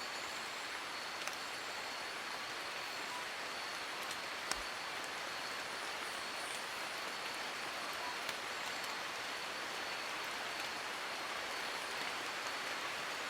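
Steady rain falling on forest leaves, with a few louder single drops that stand out now and then, three of them sharp.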